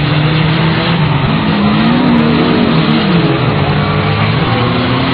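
Demolition derby cars' engines running and revving on a dirt track, with engine notes swooping up and down about two seconds in.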